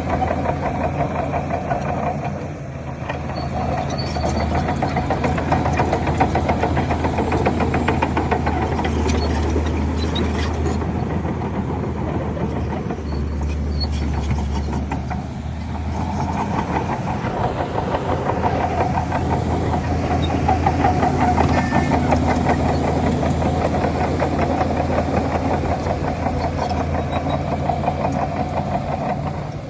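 Diesel engine of a Shantui DH17 C3 crawler bulldozer working under load: a steady low drone with dense clatter. It eases off briefly twice, about two and a half seconds in and again around fifteen seconds.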